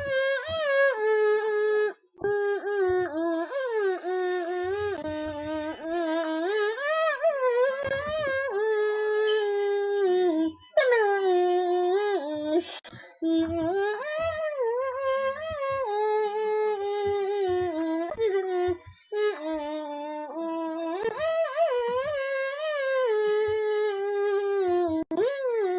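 A single voice humming the show's intro theme, unaccompanied: long held notes that slide up and down, with a few short breaks for breath.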